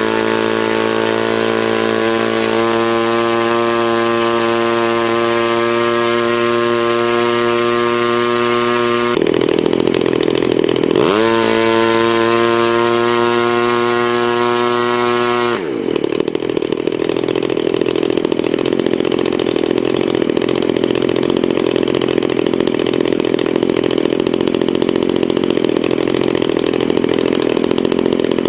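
A motor or engine running close by, a steady pitched hum for about nine seconds. Its pitch dips and climbs back about 11 seconds in, then falls away near 16 seconds into a rougher steady running.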